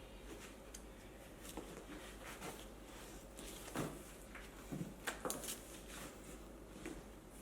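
Faint handling noises as a scooter tyre is worked onto an electric unicycle's rim by hand: scattered rubbing and scraping with small clicks, and a few sharper knocks about four and five seconds in.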